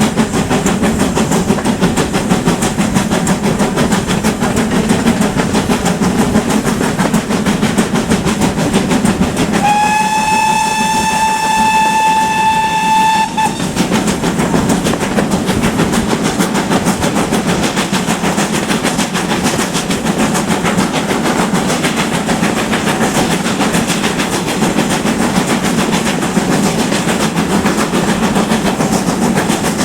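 GWR Manor-class steam locomotive running with its train, a steady loud rumble and rattle. About a third of the way in, its steam whistle sounds once: a single clear note held for about four seconds, rising slightly at the start.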